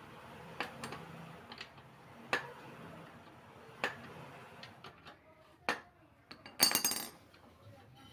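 Metal tools and parts clinking and knocking: a few scattered sharp clicks, then a short metallic rattle near the end, the loudest sound.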